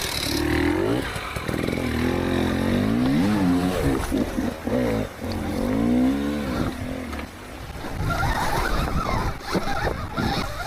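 Stark VARG electric dirt bike's motor and drivetrain whining, the pitch rising and falling as the throttle is worked. After about seven seconds the whine drops away and scattered knocks and clatter take over.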